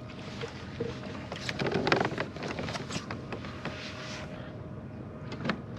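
Knocks and clatter of a kayak's trolling motor being pulled up out of the water and handled against the hull, busiest around the middle, with one sharp knock near the end.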